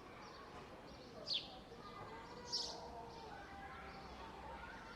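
Park ambience: a bird gives two sharp, high chirps a little over a second apart, the first a quick downward sweep, over a faint background of distant voices and steady low hum.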